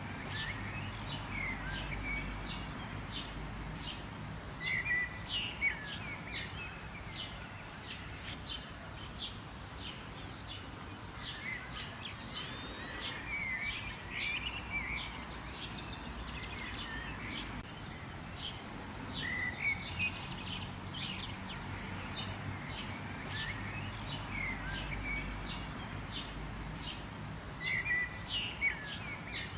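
Wild birds calling and singing: a steady run of short, high chirps, with louder warbled song phrases coming in every several seconds. A steady low background rumble runs beneath them.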